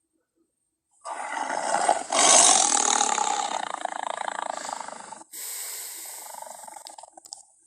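Tiger roaring, starting about a second in and swelling loudest about two seconds in before fading, then a second, quieter tiger vocalisation from about five seconds in.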